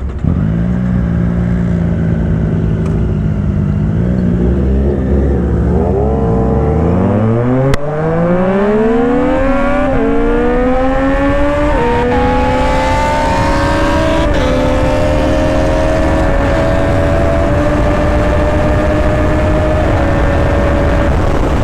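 Sport naked motorcycle engine pulling hard under full acceleration: the exhaust note holds steady, then climbs steeply from about six seconds in and drops back briefly at each of several upshifts as the bike runs up through the gears. Wind rush builds as speed rises.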